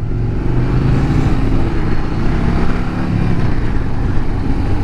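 Harley-Davidson Road Glide CVO ST's V-twin engine running steadily at cruising speed, with wind rushing past.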